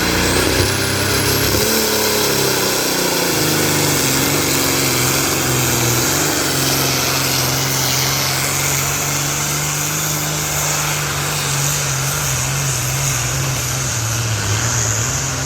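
Tractor-pull tractor's engine running hard under load. Its pitch sags over the first several seconds, then holds steady.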